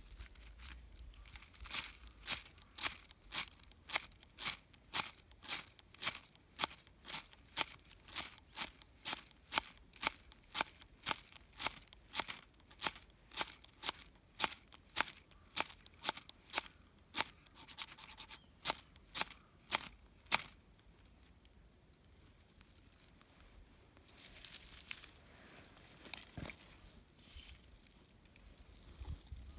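Rhythmic back-and-forth scraping strokes, about two a second, that stop about two-thirds of the way through; a softer rustling follows near the end.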